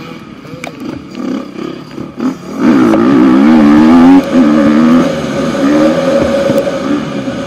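Husqvarna FC 250 four-stroke single-cylinder motocross engine, heard from a camera on the bike: through a corner it runs lighter and choppier, then about two and a half seconds in the throttle opens and it revs loud with a wavering pitch. There is a brief break a little after four seconds, and it eases off near the end.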